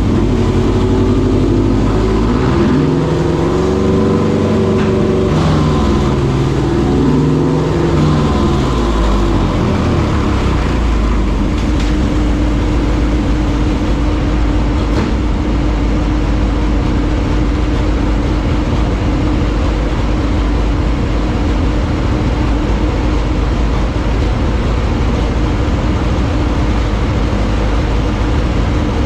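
S&S T143 143-cubic-inch V-twin in a Harley-Davidson Dyna running on a dyno: engine speed rises and falls for the first ten seconds or so, then is held steady under load for fuel tuning during break-in. Dyno cooling fans blow loudly over the exhaust note.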